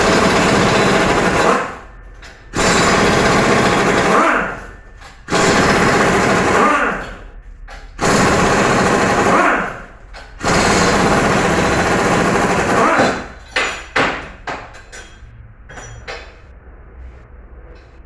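Pneumatic impact wrench hammering in about five bursts of roughly two seconds each, then a few short blips near the end, as bolts are loosened during an engine teardown.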